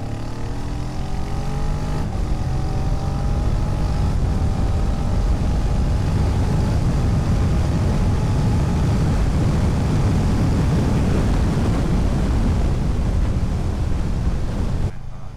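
650 motorcycle engine accelerating hard: its pitch climbs through one gear, there is a shift about two seconds in, and it climbs again in the next gear. Wind noise on the microphone builds with speed until it covers the engine, then drops off suddenly near the end.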